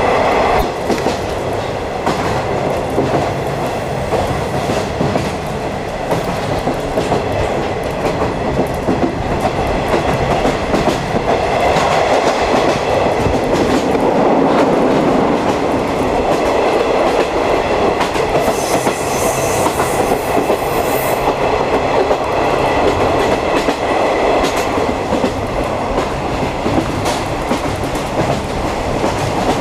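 A 50-series passenger coach running on the rails: steady wheel-on-rail rumble with clickety-clack over the rail joints. A brief high-pitched hiss comes in about two-thirds of the way through.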